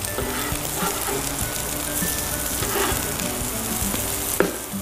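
Egg-and-greens patties sizzling steadily as they fry in oil in a nonstick pan, with a short knock of the metal spatula against the pan near the end. Soft background music plays underneath.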